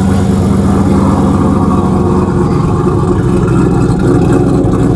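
Dodge Challenger R/T's Hemi V8 idling, loud and steady, through a straight-pipe exhaust with the catalytic converters still on.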